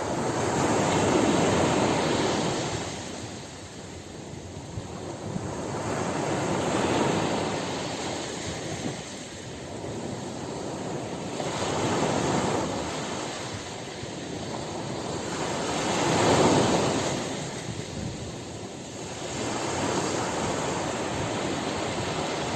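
Ocean surf breaking on a beach, a steady wash that swells and fades about every four to five seconds, five surges in all, the loudest one late on.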